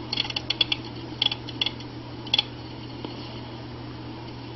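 Bursts of short, quick clicks from working a computer, several in the first second, a few more around a second and a half in, and one near two and a half seconds, over a steady low electrical hum.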